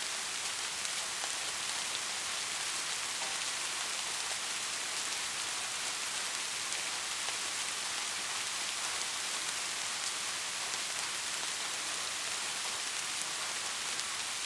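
Heavy rain falling steadily, an even hiss with fine ticks of individual drops through it.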